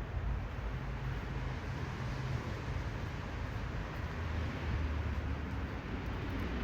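Steady city street ambience: a continuous low hum of motor traffic under an even hiss of noise.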